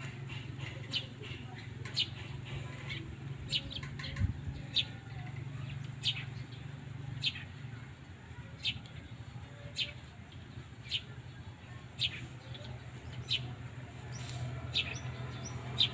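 A small bird chirping over and over, short falling chirps about once a second, over a steady low hum.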